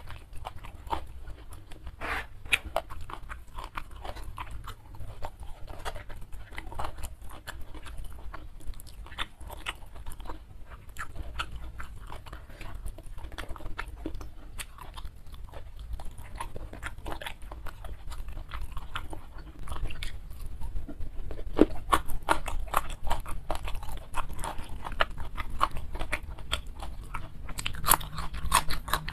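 Close-miked chewing and mouth sounds of a person eating rice and smashed fried chicken wing by hand, a steady run of small wet clicks and crunches. The crunches get louder and denser in the last third, ending in crisp bites into a raw green bean.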